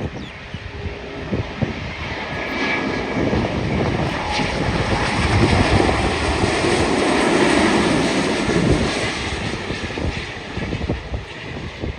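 Narrow-body jet airliner passing by. The engine roar swells to a peak about halfway through, then fades away.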